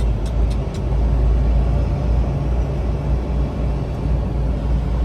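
Semi-truck diesel engine running steadily at low speed, a continuous low rumble, with a few quick sharp ticks in the first second.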